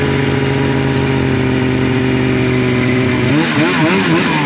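Snowmobile engine running at a steady pitch while riding along a trail, then revving up and down in quick swings near the end as the throttle is worked.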